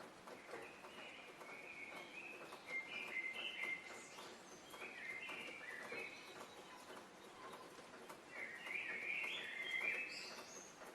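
Songbirds singing, short warbling phrases coming in three bouts, over a faint steady background hiss.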